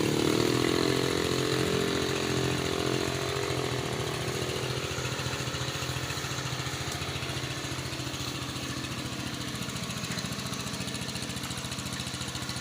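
Small engine running steadily with a fast even pulse; a higher hum over it in the first three seconds or so wavers and fades away.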